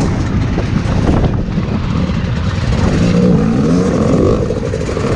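Hard enduro dirt bike engine revving hard under load, its pitch rising and falling as the throttle is worked, clearest past the middle.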